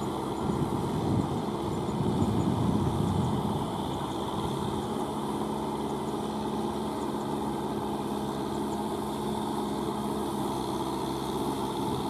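Diesel engine of a Kubota M6040SU four-wheel-drive tractor running steadily, a little louder for a second or so about two seconds in.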